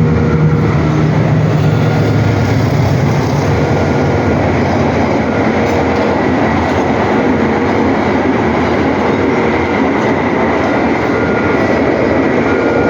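A train passing close by: a loud, steady rush of wheel and rail noise.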